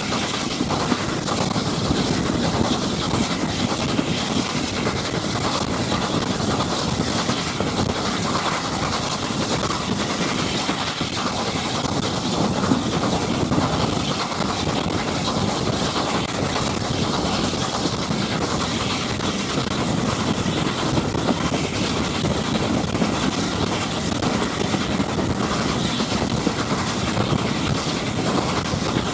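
Steady running noise of a steam-hauled train at speed, heard from the carriage directly behind LNER A4 locomotive 4464 Bittern: wheels rumbling on the rails with a rush of air, unbroken throughout.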